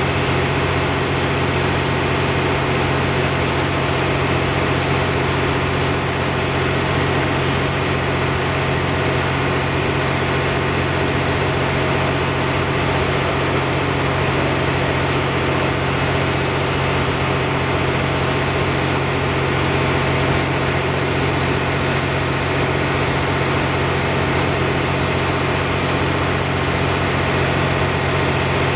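A train's diesel engine idling at a standstill: an even, unchanging hum.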